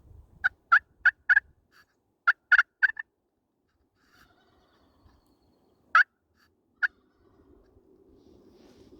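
Turkey calling: two quick runs of four short, sharp yelping notes in the first three seconds, then two single notes about six and seven seconds in.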